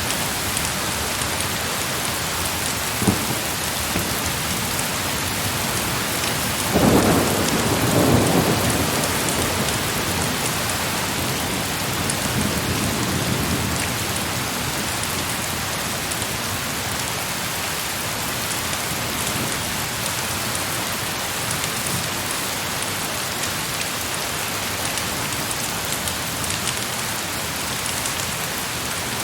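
Heavy rain pouring steadily, with a roll of thunder about seven seconds in and a fainter rumble a few seconds later.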